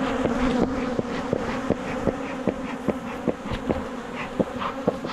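Honeybees buzzing in a steady, dense hum over an open hive, with a quick regular ticking, two or three a second, running through it.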